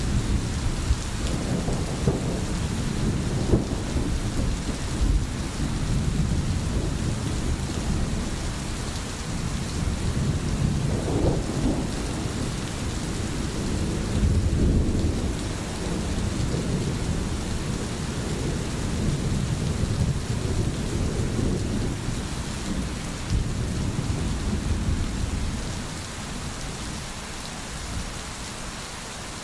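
Steady rain hissing, with low thunder rumbling and rolling underneath. Both ease off slightly near the end.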